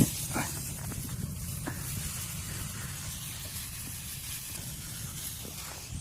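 Steady hissing noise with a low rumble underneath, cutting in and out abruptly.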